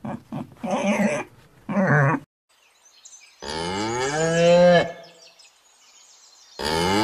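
A pig grunting in a few short bursts, then a cow mooing twice. The first moo is long and drops in pitch at its end; the second starts near the end.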